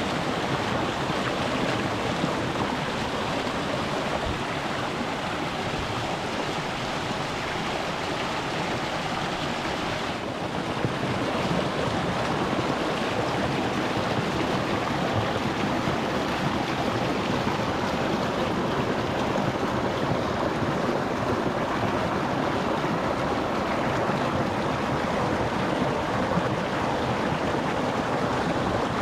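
Shallow rocky stream rushing and babbling over stones, heard close to the water. The steady water noise dips briefly about ten seconds in, then carries on slightly fuller.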